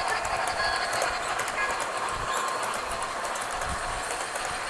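Model train with an Illinois Central steam locomotive running along the layout track: a steady running noise with quick, irregular clicking of wheels over the rails.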